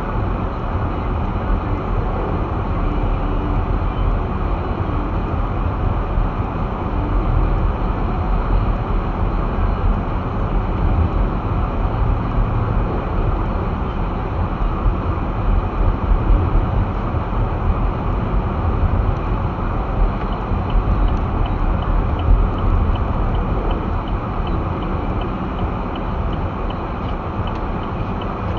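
Car driving slowly over snow-covered roads, heard from inside the cabin: a steady low rumble of tyres and engine. A faint regular ticking comes in during the last several seconds.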